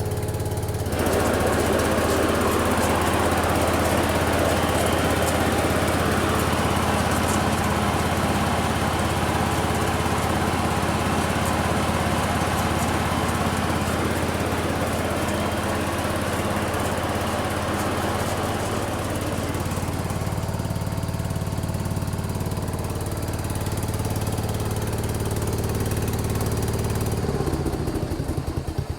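Case 224 garden tractor engine running with its snowthrower engaged, the blower adding a steady whirring noise over the engine from about a second in, with its drive pulley freshly repaired. Near the end the blower noise drops away and the engine is left running with a slower, pulsing beat.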